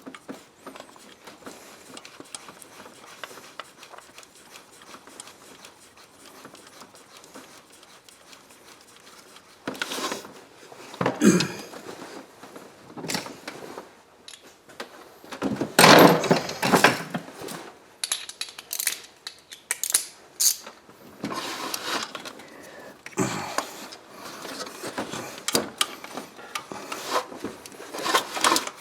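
Hand tools and metal parts clinking and knocking in irregular bursts during spark plug and ignition coil work. It is quiet for the first third, and the clatter is loudest about sixteen seconds in.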